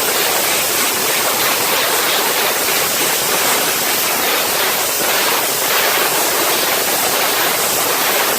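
MIG welder laying a continuous bead on thin car-body sheet metal: a steady, loud crackling hiss that cuts off abruptly at the end.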